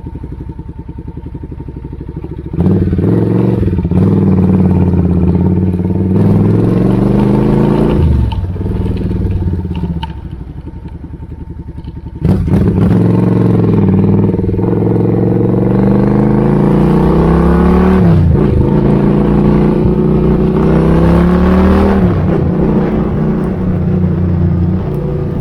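Suzuki Intruder 800 V-twin motorcycle engine, with an exhaust being tried out, idling and then revved twice. A few seconds in it is held at raised revs with the pitch slowly climbing, then drops back to idle. About twelve seconds in it is revved again, longer and climbing in two steps, before falling back to idle near the end.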